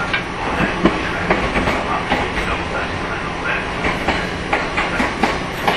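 JR 115 series electric multiple unit running, heard at the coupled cab ends between two cars: a steady rumble and hiss with frequent irregular clicks and knocks from the wheels and couplings.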